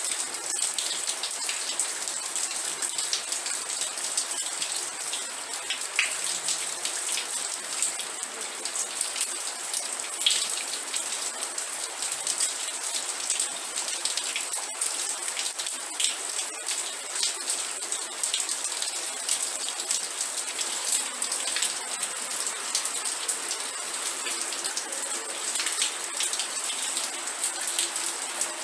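Steady rain falling on a surface, a continuous hiss with many distinct drop impacts ticking through it.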